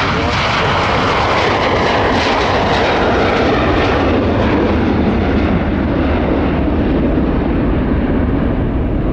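Jet airliner's engines at takeoff power as it rolls and climbs out past the viewer: a loud, steady roar whose whine falls steadily in pitch as it goes by.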